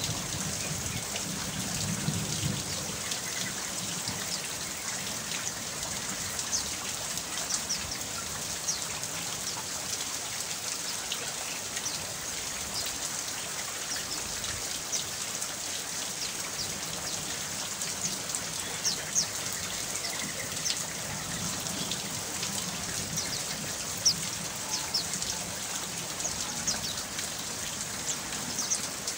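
Steady rainfall: an even hiss of rain with scattered individual drops ticking, and a low rumble of thunder dying away in the first few seconds.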